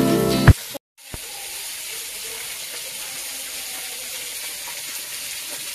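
Background music cuts off half a second in, then a steady sizzling hiss of hot oil, like fish frying in a pan.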